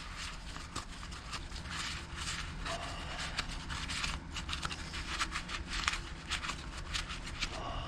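Scraping, rubbing and small clicks of hands cleaning a small string-trimmer part, over a steady low hum.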